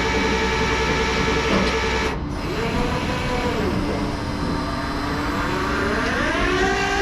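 Tow truck's engine running steadily with a whine, dropping out briefly about two seconds in, then rising smoothly in pitch to a higher steady note near the end as it speeds up.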